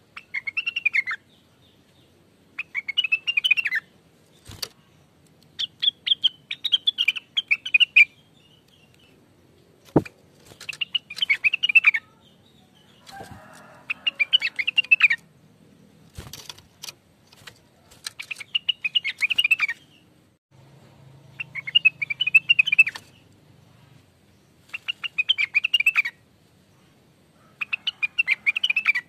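Blue-winged leafbird (cucak wilis) singing in repeated bursts of rapid, chattering phrases, each a second or two long with short pauses between. A few sharp clicks sound between the phrases.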